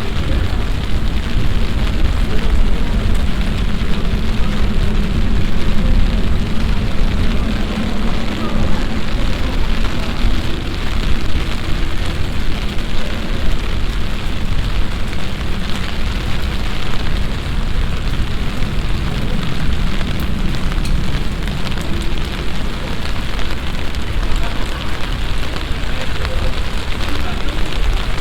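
Heavy passing summer downpour: a dense, steady hiss of rain with a deep low rumble underneath.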